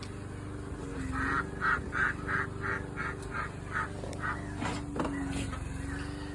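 Domestic duck quacking in a quick run of about ten quacks, about three a second, trailing off, over a steady low motor hum.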